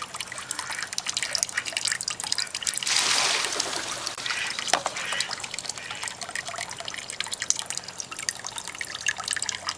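Water dripping and trickling in a swimming pool, a steady patter of small drops, with a louder splashing rush about three seconds in that lasts about a second.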